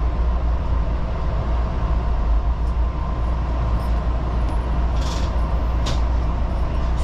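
Electric commuter train rolling slowly into its terminal platform, heard from the driver's cab as a steady low rumble with a faint hum. There is a short hiss about five seconds in and a sharp click about a second later.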